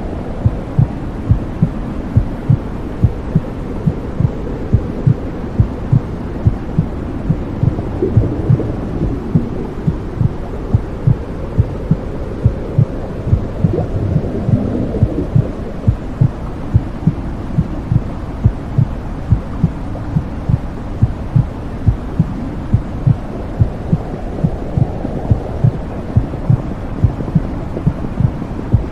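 Womb sound: a heartbeat's regular low thumps, about two a second, over a steady low whooshing rumble.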